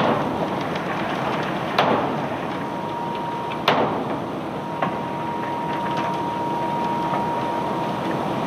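Unloading machinery running steadily, with a constant whine and a few sharp knocks as cobblestones strike metal. The loudest knock comes about three and a half seconds in.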